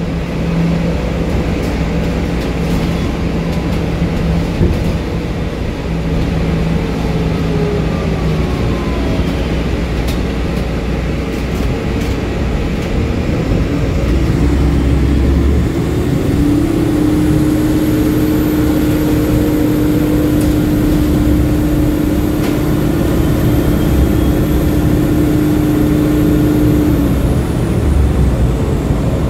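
HeuliezBus GX Linium H diesel-electric hybrid city bus running, with its Iveco Tector 7 diesel engine and BAE Systems electric drive. A steady low hum, joined from about the middle to near the end by a steady tone and a high whine that rises in and falls away.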